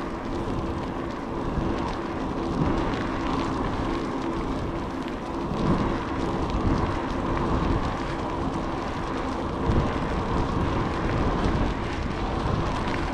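Steady wind and road noise from a ride in progress, with a faint constant hum underneath.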